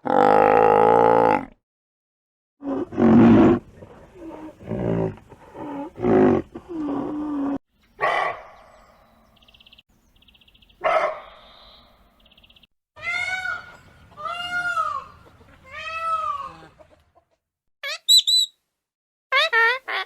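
A string of different animal calls, one after another: a loud pitched call at the start, several shorter calls over the next few seconds, then three rising-and-falling calls, and short high chirps near the end.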